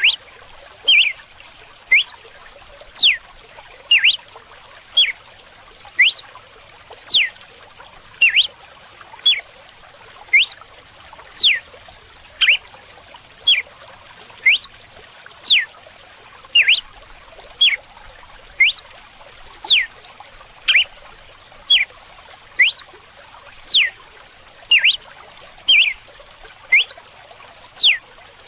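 Red-cowled cardinal (galo-de-campina) singing its whip-like 'açoite' song: sharp notes that sweep down in pitch, about one a second, some in quick pairs. Steady running water underneath.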